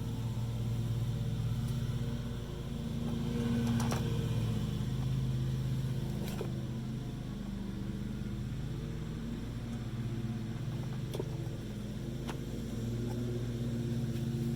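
A steady low mechanical hum that swells and eases slightly, with a few light clicks and taps scattered through it.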